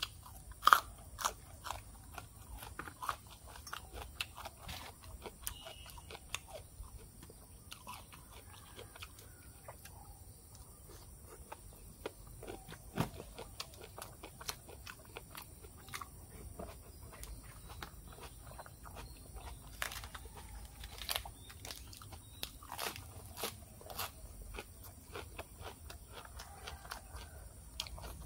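Close-miked chewing and crunching of a pig-ear tam sua salad and raw greens. It gives irregular crisp crunches and wet mouth clicks, with a few sharper bites, the strongest about a second in.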